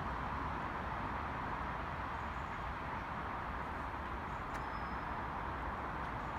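Steady rumble and hiss of train noise at a railway station platform, unchanging throughout, with one brief click about four and a half seconds in.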